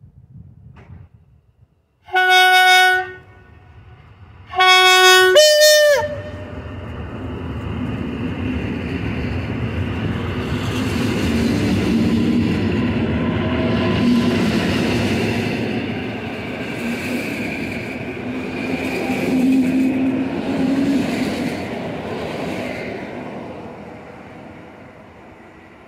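EN57AKM electric multiple unit sounding its horn in two loud blasts, the second dropping in pitch as it cuts off, then running past with a steady rumble of wheels and motors that swells twice and fades near the end as the train goes away.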